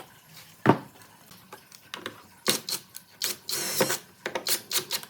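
Irregular sharp knocks and clatters of hand tools working wood, a few spaced apart and then a quicker run, with a short scrape in the middle of that run.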